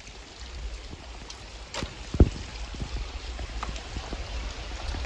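Rain falling, with water pouring and trickling, and scattered sharp drop taps. One louder thump comes about two seconds in.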